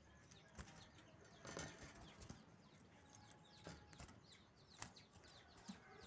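Mostly quiet, with faint scattered clicks and a few short flutters from caged birds moving against the wire, and faint high chirping from small birds in the background.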